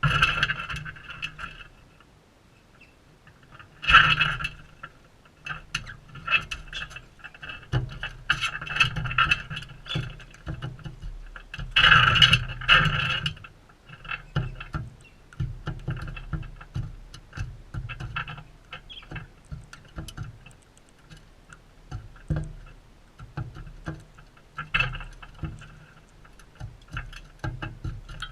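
Galahs at close range making a run of quick clicks and scratchy rasps in irregular clusters, loudest about 4 and 12 seconds in.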